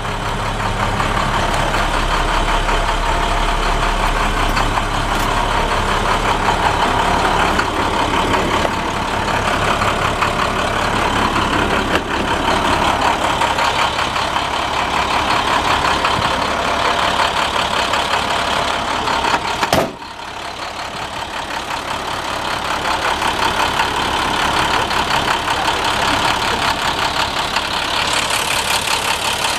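The diesel engine of a 2013 International 4300 truck idling steadily. A single sharp knock comes about twenty seconds in, after which the sound briefly drops and builds back up.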